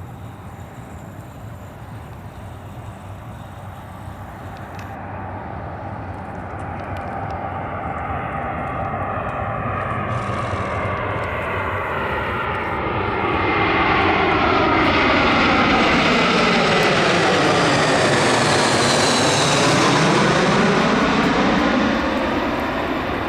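Airbus A320-232 jetliner with IAE V2500 turbofan engines flying past: the engine noise grows steadily louder, holds at its loudest for several seconds, and falls off near the end. As it passes closest, a rushing tone sweeps down and back up.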